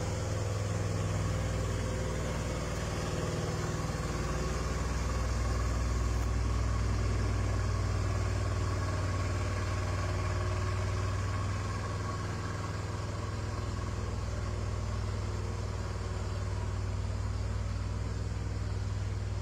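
A 6x6 timber truck's engine running steadily as a low, even drone, with no revving up or down.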